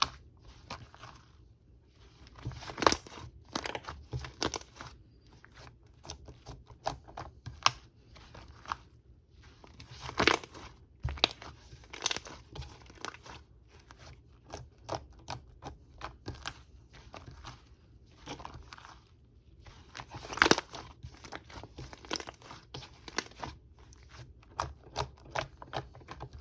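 Cream-filled slime being handled, giving sticky, irregular popping and crackling clicks as it is stretched, pressed and folded. A few louder clusters of pops stand out.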